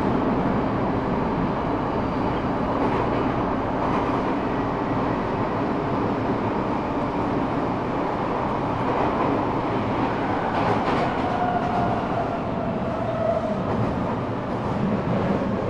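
Eidan 6000-series subway car (the car with the Mitsubishi three-level VVVF inverter taken from a 7000-series train) running through a tunnel, heard from the car floor: a steady rumble of wheels and track, with a faint whine coming in about eleven seconds in.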